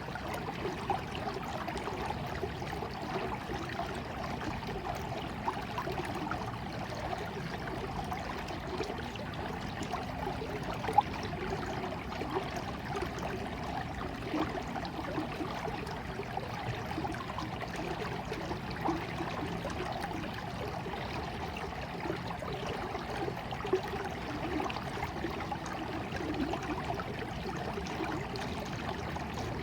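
Stream of water flowing and trickling steadily, with small scattered splashes, one sharper about eleven seconds in.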